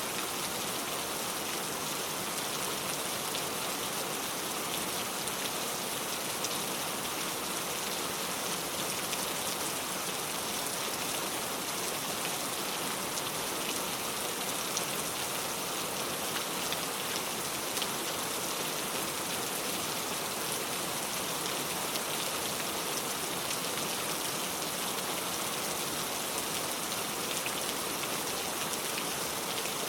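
Heavy rain falling steadily, a constant hiss of pattering drops.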